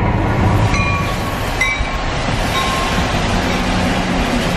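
NJ Transit commuter train running past, a steady rumble with two brief high squeals in the first two seconds.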